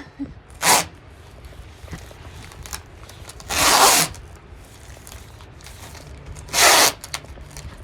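Sheathing seam tape being ripped off its roll in three short, loud pulls: one about a second in, a longer one near the middle, and one near the end.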